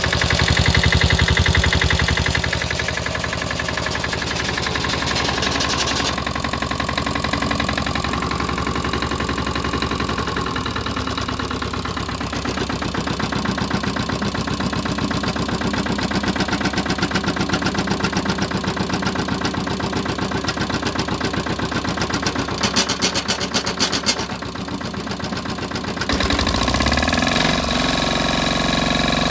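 Lombardini Tipo 520 single-cylinder diesel on a BCS 715 walk-behind tractor running steadily, its speed and load changing several times. Near the end there is a short run of sharp knocks, then a brief drop, and the engine comes back louder.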